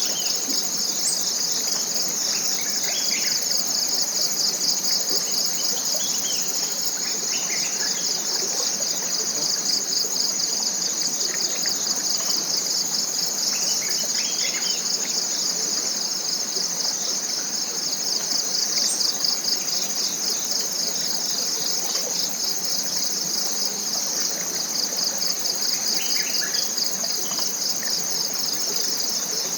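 Forest insects calling as one steady, high-pitched chorus with a fast pulsing trill. Faint short bird chirps come and go beneath it.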